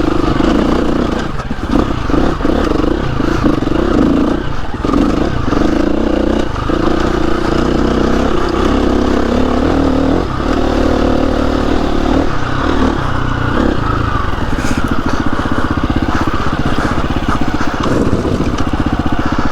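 KTM 350 EXC-F single-cylinder four-stroke trail bike engine under way, its revs rising and dropping every second or two with brief breaks between, then running steadier for the last few seconds.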